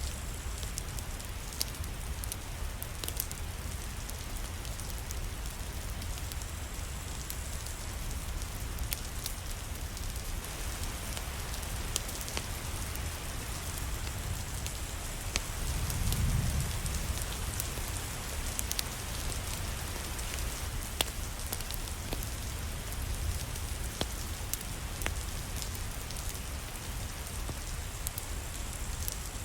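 Steady rain falling, with scattered sharp crackles and ticks throughout and a brief low rumble swelling about halfway through.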